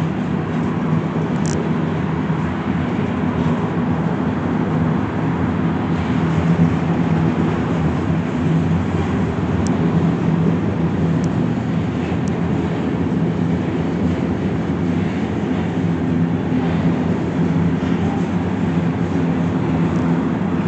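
BNSF grain train of covered hopper cars rolling past: a steady rumble of wheels on rail with a low hum underneath and a few brief, faint high-pitched squeaks.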